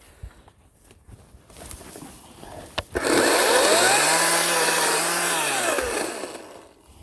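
Ryobi 40-volt cordless chainsaw's electric motor spinning up about three seconds in, after a sharp click. It runs at steady speed for about two seconds and then winds down.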